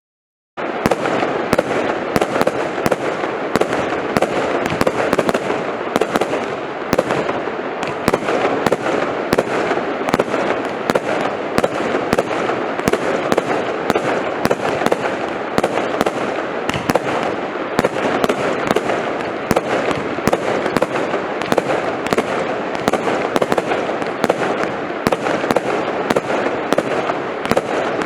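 F3 compound firework ("Lightning Storm") firing without a break: a dense, continuous rush of rapid small bangs with sharper reports standing out several times a second. It starts suddenly about half a second in.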